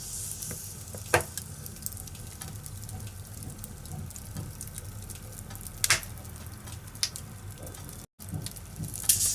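Firewood burning in a fireplace: a steady low crackle and hiss with sharp pops, the loudest about a second in and around six and seven seconds. The sound drops out for an instant a little after eight seconds.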